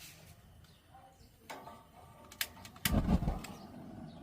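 Grill being lit: a couple of sharp clicks, then a loud low whoosh about three seconds in as the fire catches, followed by a steady low rush.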